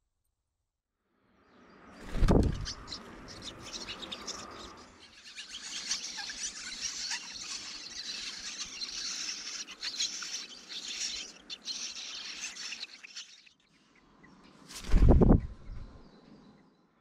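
Eurasian jay nestlings begging at a feeding visit: a dense, high chatter of many short cheeping calls that runs for several seconds and then stops. Two loud, low thumps break in, one about two seconds in and one near the end.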